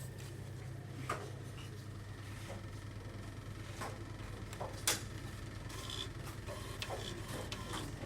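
Scattered clicks and light knocks, the sharpest about five seconds in, over a steady low hum: an AQUA coin-operated 5 kg washing machine being operated by hand.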